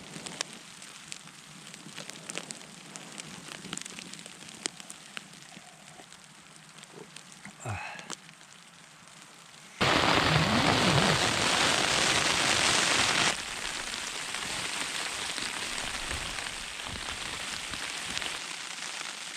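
Hail pattering on the tent's fabric as many small sharp ticks. About ten seconds in, a loud rush of noise starts abruptly and breaks off about three seconds later, leaving a steady hiss.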